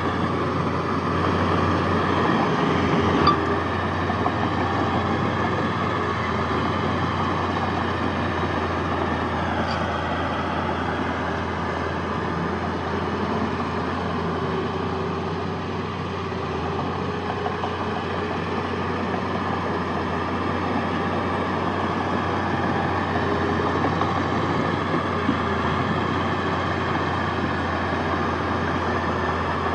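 Heavy diesel earthmoving machinery running steadily, with a short sharp knock about three seconds in.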